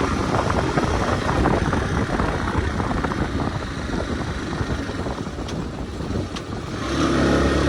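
Hartford VR motorcycle being ridden, its engine running under a rushing noise. About seven seconds in, the engine note steadies into an even hum.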